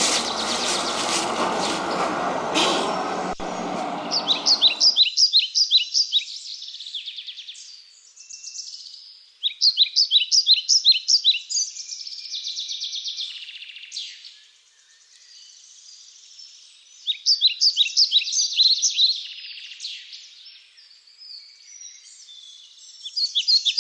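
A songbird singing repeated bursts of quick, high, clipped notes, each phrase lasting a second or two and recurring every few seconds. A dense wash of other sound runs under the first five seconds and cuts off suddenly.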